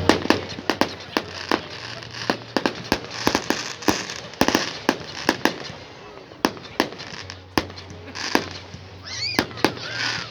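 Fireworks going off in quick, irregular succession: sharp bangs and crackles, some followed by a short hiss.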